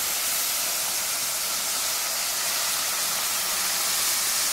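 Shrimp, onion and garlic sizzling in hot margarine in a frying pan: a steady, even hiss.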